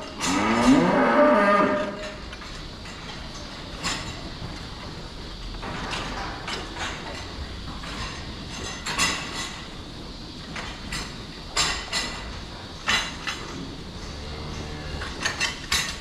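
A cow mooing loudly for about the first two seconds, with a fainter moo shortly before the end. Scattered short clicks and knocks come between the calls.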